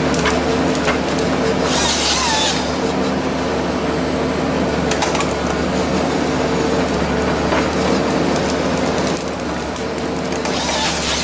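A heavy machine's engine running steadily with an even hum. Two short, loud bursts of crackling noise stand out over it, about two seconds in and again near the end.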